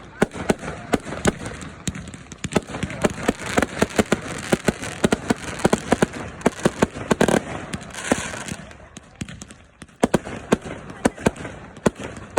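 Fireworks going off in rapid volleys, sharp bangs and cracks several a second, thinning to a brief lull about nine seconds in before the barrage picks up again.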